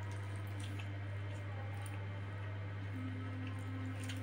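Close chewing and wet mouth sounds of a man eating rice, noodles and fried egg by hand, with a few small clicks and a sharper one near the end. A steady low hum runs underneath and is the loudest thing.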